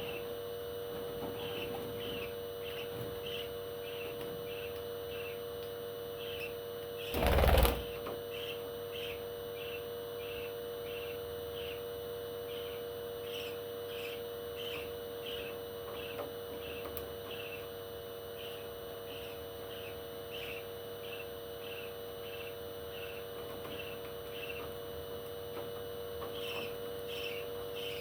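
Parrot chirping over and over, short high chirps evenly spaced about every half second, with one loud burst of wing flapping about seven seconds in. A steady hum runs underneath.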